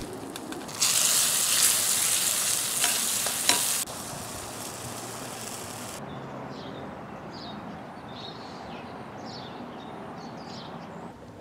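Food frying in a cast-iron skillet: a loud sizzle with a few clicks of a spatula against the pan for the first few seconds, dropping to a quieter, steady sizzle about four seconds in.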